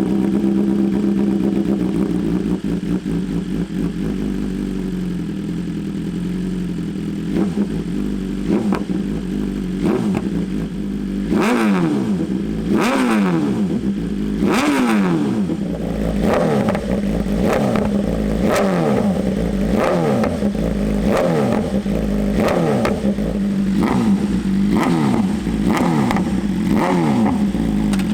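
BMW S1000RR inline-four engine breathing through an Arrow Competition EVO full exhaust, idling steadily and then revved in a series of quick throttle blips, each rising and dropping sharply, coming faster, about one a second, in the second half.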